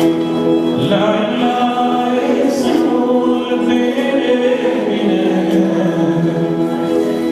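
A choir singing gospel music, voices in held chords with a melody moving over them.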